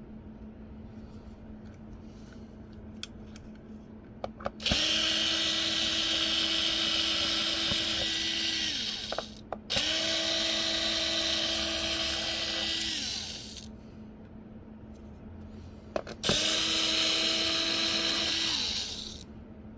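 A small electric power tool's motor run three times, about four seconds each, spinning up quickly to a steady whine with a hiss over it and winding down after each run.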